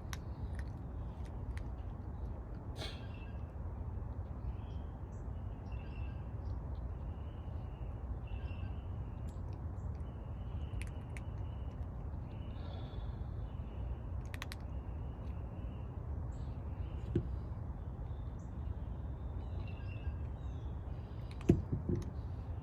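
Birds chirping over a steady low background rumble, with a sharp knock about a second before the end.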